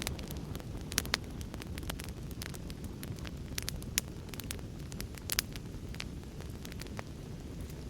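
Wood fire crackling in a fireplace, with irregular sharp snaps and pops over a steady low rumble of storm ambience.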